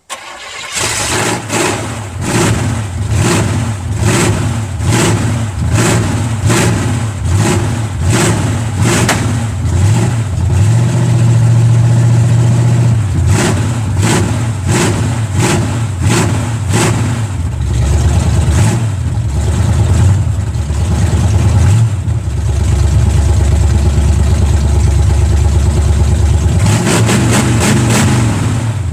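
V8 engine in an Oldsmobile Cutlass firing up for its first test run after the swap. It starts abruptly and runs unevenly, pulsing about twice a second, then settles into a steadier run with the revs stepping down and back up.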